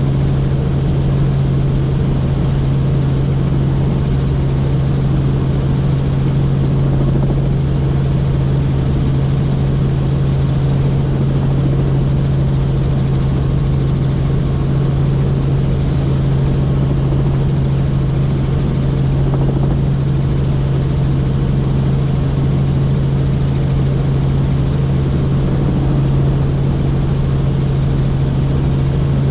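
Helicopter in flight: a steady, unchanging drone of engine and rotor with a strong low hum.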